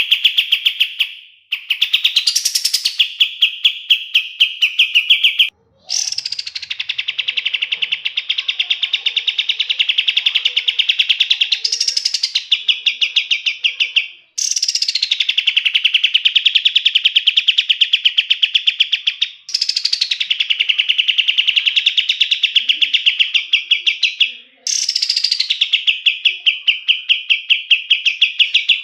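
Kapas tembak songbird singing long, rapid rolling trills of quickly repeated notes, each phrase opening with a high falling note and running several seconds, with short breaks between about six phrases.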